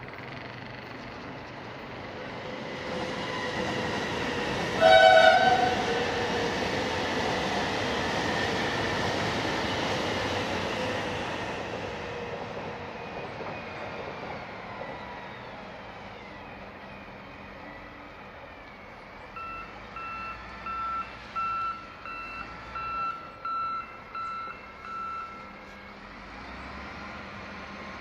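CRH1 electric multiple unit passing over a railway bridge, its rumble rising and then fading as it moves away, with one short, loud blast of its horn about five seconds in. Later comes a string of about ten short high-pitched tones.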